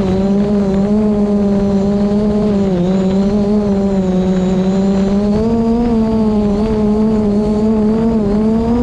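DJI Mavic Pro quadcopter's propellers and motors humming steadily, the pitch wavering slightly up and down as the motors adjust in strong wind, with wind rumble buffeting the microphone underneath.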